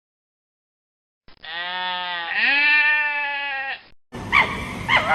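A goat bleating: one long, wavering bleat lasting about two and a half seconds. Near the end, short high calls start over a noisy background.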